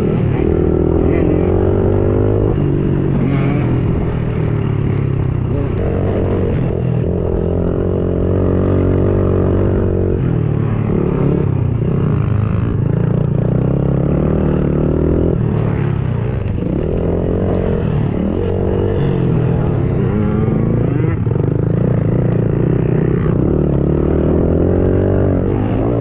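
Small pit bike engine revving hard while being ridden, its pitch climbing and falling again and again as the throttle is worked through the corners and gears, with short drops in between.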